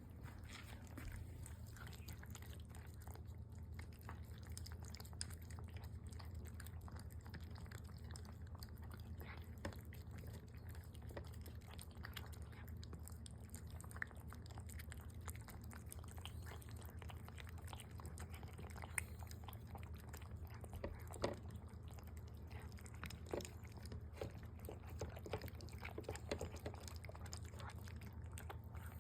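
House cats eating, with many short chewing clicks that come more often in the second half, over a steady low hum.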